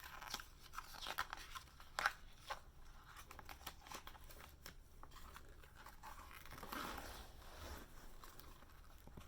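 Faint rustling and small clicks of a picture book's paper pages being handled and turned.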